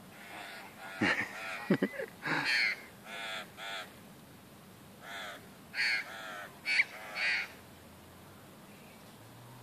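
Crows cawing: a run of short harsh caws, some in quick pairs, that stops about seven and a half seconds in.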